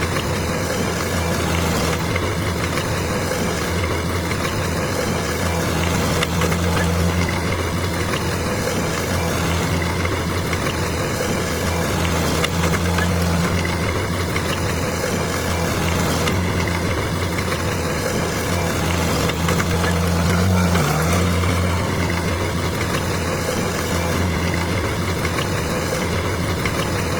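Bulldozer's diesel engine running steadily with a low, even note, dipping briefly in pitch about twenty seconds in.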